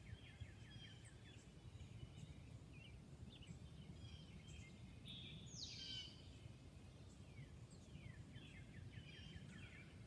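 Faint outdoor ambience with small birds chirping on and off, including one quick falling call a little past halfway, over a low steady background rumble.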